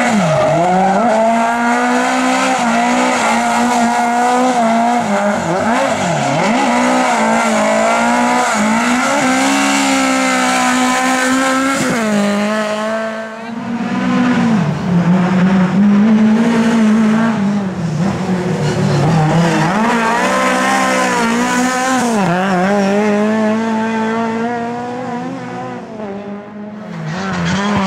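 Racing Lada's engine running hard at high revs, the pitch rising and falling over and over through gear changes, lifting off briefly about halfway and again near the end.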